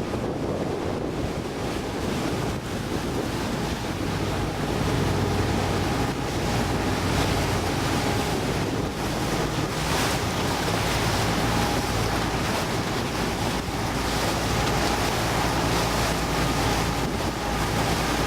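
Motorboat engine running steadily under way, with water rushing past the hull and wind buffeting the microphone. The sound gets a little louder about four seconds in.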